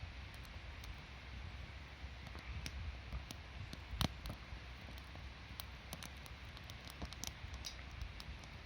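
Wood campfire crackling, with scattered small pops and one sharper pop about four seconds in.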